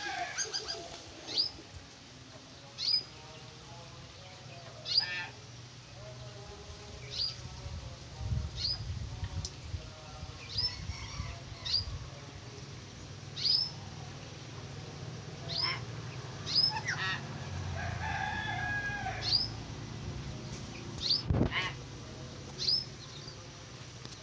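Birds calling: short, sharp high whistles, each dropping in pitch, repeated every second or two, with a longer crowing call about three-quarters of the way through over a steady low hum.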